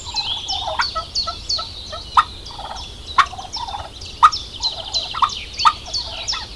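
Helmeted guineafowl calling: a rapid run of short, high, chattering calls, about four a second, with a few louder sharp notes among them.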